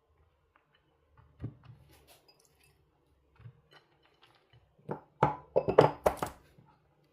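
Scattered light knocks and clicks of objects being handled, then a quick run of louder knocks and clatter about five to six seconds in.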